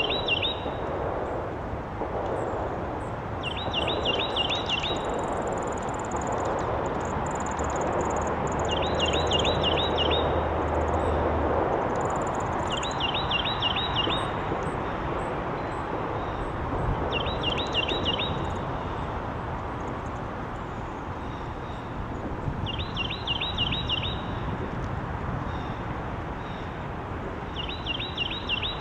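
A songbird sings the same short phrase of about five quick notes over and over, roughly every four to five seconds. Fainter, higher chirps from other birds come in between. A steady background noise runs underneath, with a low hum for a few seconds near the middle.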